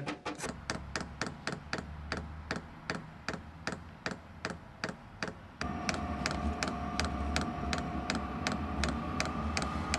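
Diesel heater's fuel dosing pump ticking steadily, about three sharp clicks a second. This is the pump itself knocking as it pulses fuel, not a loose part hitting the casing. About halfway through, a steady hum with a faint whine joins in under the ticks.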